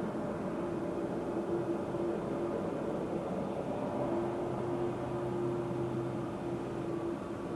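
Jet airliner's engines running, a steady hum carrying a couple of steady tones.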